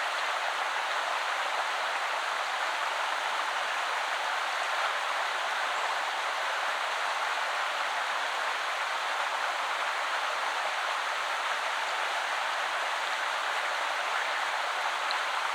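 River water flowing over stones in a shallow woodland river: a steady, even rush.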